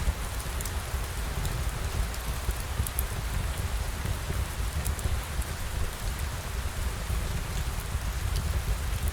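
Steady rain falling, with a constant low rumble underneath and scattered small drop ticks on top.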